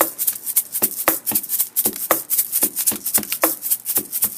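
A person beatboxing a fast, steady beat of clicks and hissing hi-hat sounds, about four strokes a second.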